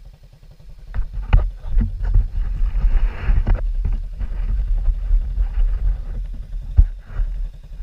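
Pit bike engine running with a regular low pulse, then pulling away, with low rumbling wind on the microphone and scattered knocks from about a second in.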